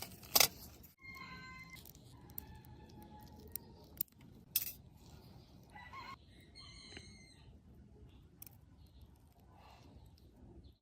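A few sharp metallic clicks and taps, as of small tools and parts being handled, over faint background noise; the loudest click comes about half a second in.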